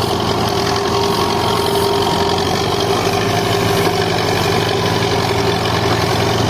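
Tractor diesel engine running steadily at an even speed, loud and unchanging.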